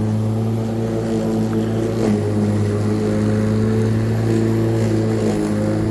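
Black & Decker 1800 W corded electric rotary lawnmower running steadily with an even hum. Its power switch is sticking on, so the motor keeps running after the handle is let go.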